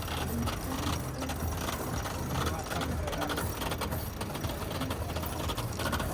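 Sailboat winch being cranked, its pawls clicking over and over, over a steady low rumble.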